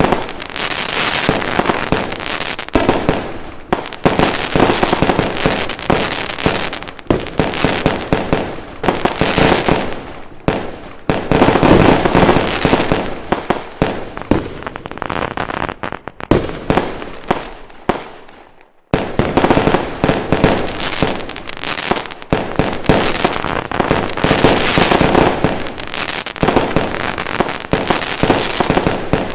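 Fireworks going off in a dense, continuous barrage of bangs and crackling. Just before two-thirds of the way through, the sound fades briefly almost to nothing, then the barrage starts again suddenly.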